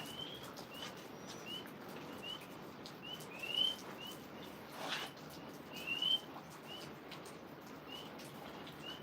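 Tree frogs calling: short rising chirps repeated about every three-quarters of a second, with a couple of longer rising calls, over the steady hiss of rain.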